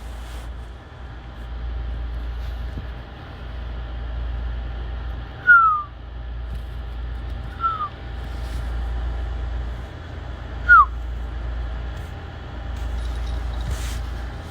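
A kitten mewing three times: short, high cries that fall in pitch, spaced a couple of seconds apart, over a steady low rumble.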